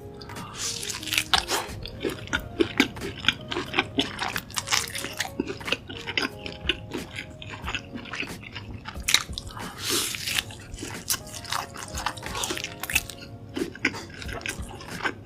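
Close-miked chewing and biting of pork tomahawk chop meat dipped in mustard sauce: a steady run of wet smacks and clicks, with faint background music underneath.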